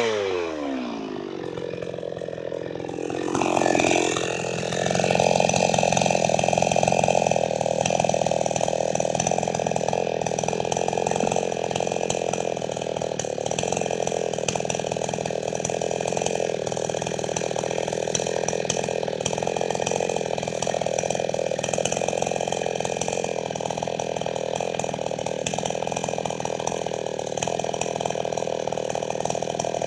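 Gasoline two-stroke chainsaw, Chinese-made, coming off full throttle: the engine note falls away at the start, blips up briefly about four seconds in, then runs steadily at a lower, even speed.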